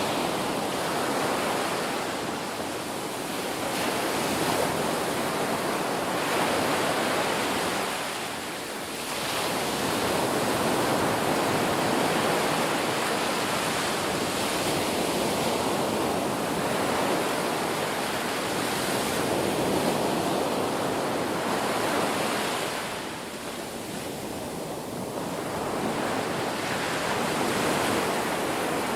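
Ocean surf: waves breaking and washing in a continuous rush that swells and eases, with two clear lulls between breakers.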